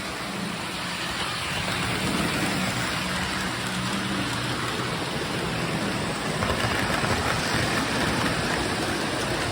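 Lionel O-gauge toy train running on the layout's three-rail track: a steady rolling rumble of wheels with a low motor hum.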